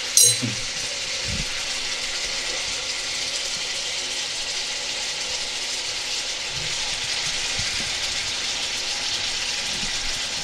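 Chicken liver and tomato pieces sizzling steadily in hot oil in a frying pan, with a short click just after the start.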